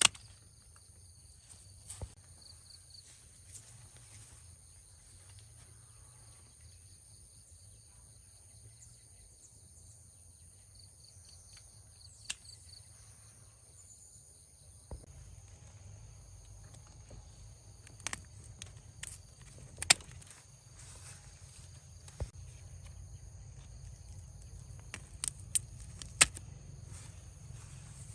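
Steady high-pitched chirring of insects, with a fast pulse in it, over a low rumble that grows a little louder about halfway through. Scattered sharp clicks and snaps break in, the loudest about two-thirds of the way through and again near the end.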